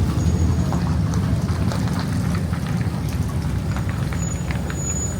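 Outdoor street ambience: a steady low rumble with scattered faint ticks.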